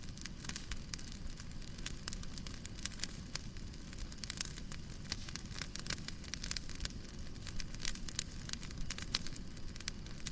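Wood fire crackling in a fireplace: frequent irregular pops and snaps over a steady low rumble of the burning.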